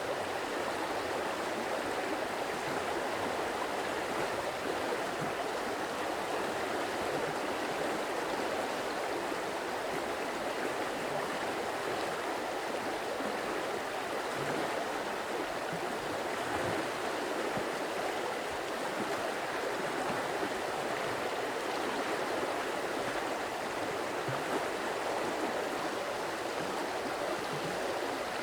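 Running water of a stream, a steady, even rush with no pauses or changes.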